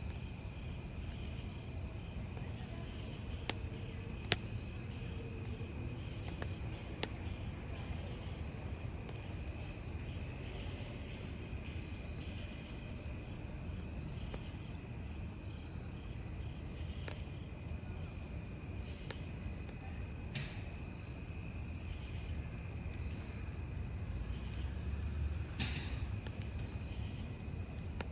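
Crickets chirring steadily in a high, continuous drone over a low rumble of a wood campfire, with scattered sharp pops and crackles from the burning logs.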